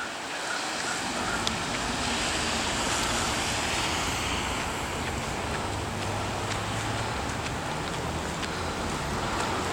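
Steady rushing noise of wind outdoors in a snowstorm, with traffic in the background.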